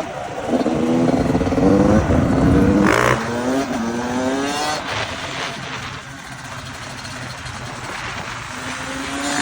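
Yamaha YZ450F's single-cylinder four-stroke engine revving in several rising pulls as the dirt bike accelerates. It eases off to a quieter, steadier note about halfway through and picks up again near the end. The bike is new and being ridden for break-in heat cycles.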